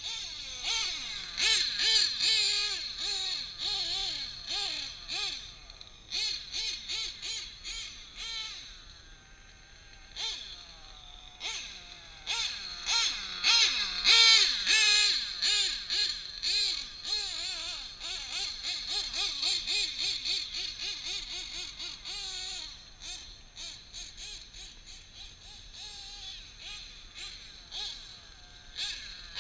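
Drag-modified Novarossi .28 nitro engine in a Kyosho 1/7 Scorpion truggy, revving up and down over and over as the truggy is driven, its high whine wavering in pitch. It drops away briefly about ten seconds in and again a little past twenty seconds.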